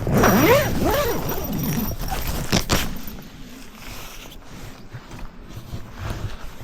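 A large Labrador–Jindo mix dog making squeaky, whiny vocal noises that rise and fall in pitch over the first couple of seconds, as a dog does on waking and stretching. A couple of sharp rustling clicks follow about two and a half seconds in.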